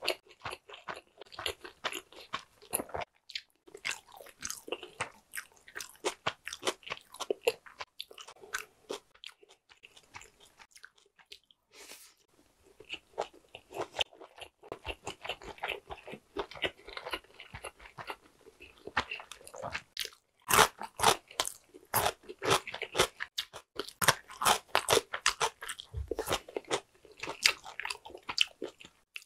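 A person chewing nigiri sushi: quick runs of clicking mouth sounds, with a short lull about a third of the way in and louder chewing over the last third.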